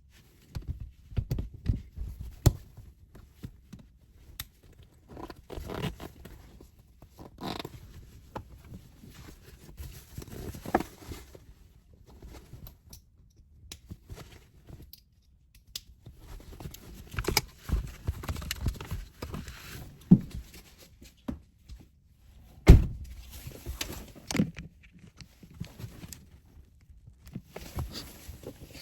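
Objects being handled and put in place: irregular knocks, thumps and rustling, with one sharp, loud thump near the end.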